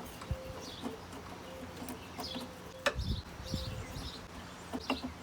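A bird chirping over and over in short high calls, one every half second or so. There are a few sharp clicks and low knocks from parts being handled, the loudest about three seconds in and again near the end.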